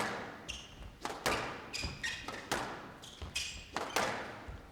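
Squash rally: the ball cracking off rackets and the walls about every half second, with short high squeaks of shoes on the court floor between shots.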